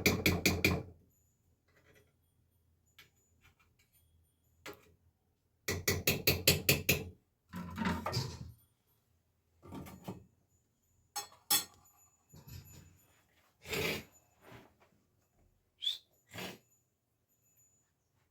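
Quick runs of sharp knocks, five or six in about a second, twice, with scattered single knocks and clatter between.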